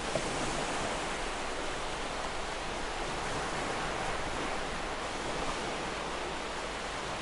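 Sea waves washing onto a shore, a steady rushing surf that swells gently and eases off.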